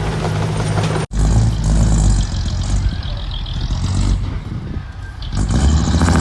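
Engines of heavy earthmoving machinery running steadily. The sound drops out for an instant about a second in, then comes back louder.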